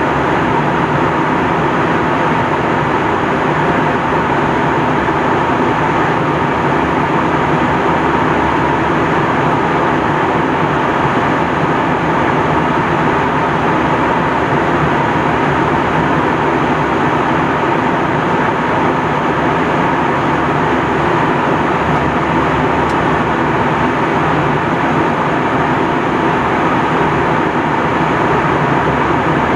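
Steady cabin noise inside an Airbus A321 airliner in flight: an even rush of airflow and engine drone with a faint steady whine, unchanging throughout.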